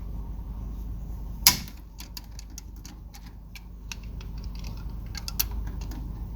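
Pliers clicking and scraping on a metal hose clamp: one sharp metal clack about a second and a half in, then a run of lighter irregular clicks and taps, over a steady low hum.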